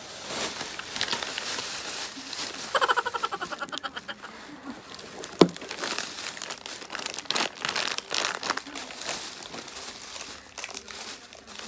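Thin plastic shopping bag crinkling and rustling as it is rummaged through and candy bars in wrappers are pulled out, with a sharp tap about halfway through.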